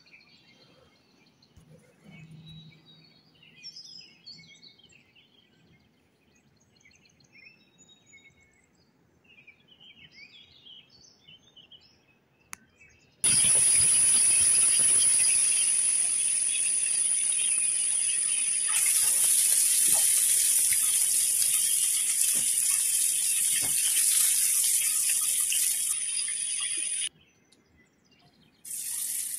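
Whole spice-coated fish shallow-frying in hot oil in a pan: a loud, steady sizzle that starts abruptly about halfway through and cuts off shortly before the end. Before it there is only faint scattered chirping over quiet.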